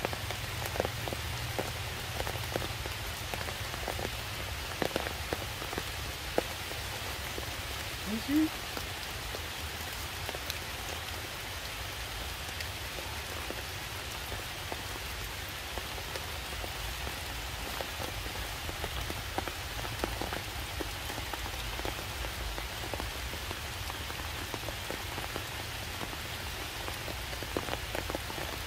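Steady rain falling on stone and leaves, with scattered drips striking close by. About eight seconds in, one short rising call.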